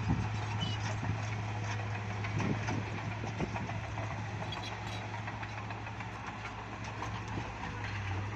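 Bulldozer's diesel engine running steadily with a low, even hum, with scattered clanks and knocks over it.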